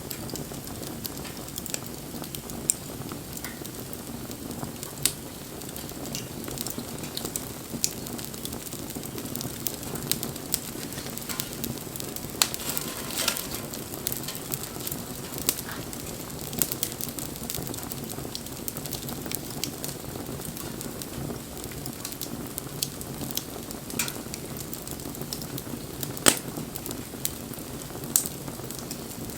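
Wood fire burning: a steady low rush of flame, with irregular sharp crackles and pops. About halfway through there is a brief denser burst of hissing crackle, and one especially sharp pop comes near the end.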